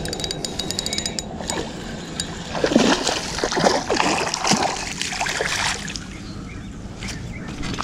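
A fishing reel being cranked with rapid clicking while a hooked bass splashes and thrashes at the water's surface, the splashing loudest a few seconds in.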